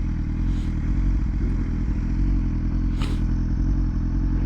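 BMW S1000RR inline-four engine running at steady low revs as the bike rolls slowly. Two brief rushes of noise, about half a second and about three seconds in.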